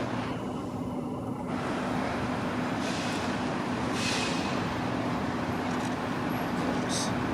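Steady mechanical hum and rumble with one constant low tone, broken by short hissing bursts about three and four seconds in and a brief high hiss near the end.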